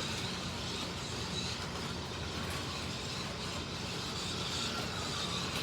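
Slot cars lapping the track: a steady whir of small electric motors and the hiss of tyres and guide braids running along the slotted track.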